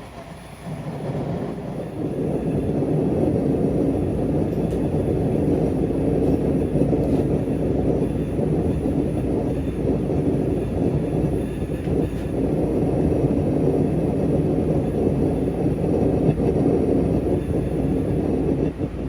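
Gas forge burner running with a steady rumbling rush, heating the cast-steel compound rest; it is briefly lower in the first second, then holds steady.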